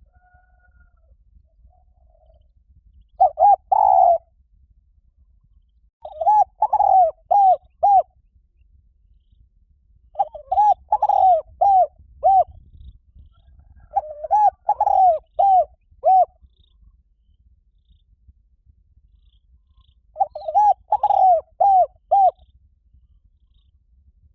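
Spotted dove cooing: five phrases of several quick coo notes each, repeated a few seconds apart.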